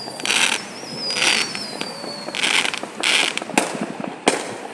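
Fireworks going off: a wavering whistle sliding down in pitch, four short hissing crackle bursts, and two sharp bangs near the end.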